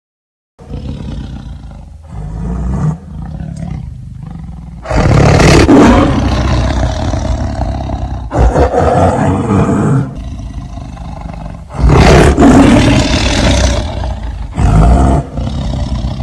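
A big cat roaring in a series of loud, rough bouts, the strongest about five seconds in and again about twelve seconds in, with lower growling rumbles between them.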